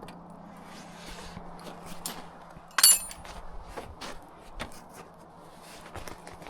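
Scattered light footsteps and knocks, with one sharp metallic clink that rings briefly about three seconds in, over a faint steady hum.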